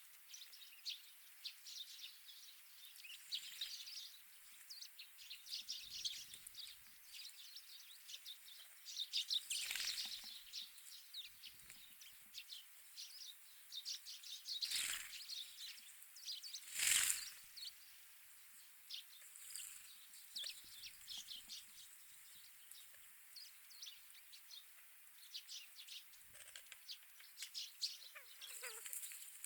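Small wild birds chirping and twittering almost continually in short high notes. A few brief louder rushes of sound come about ten, fifteen and seventeen seconds in.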